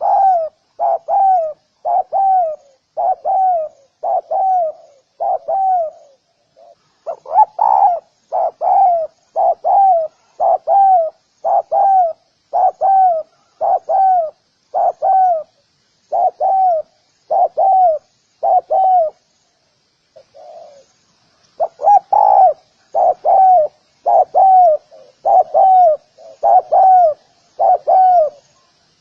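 Spotted dove cooing, a long run of short, downward-bending coo notes at about three every two seconds, broken twice by brief pauses.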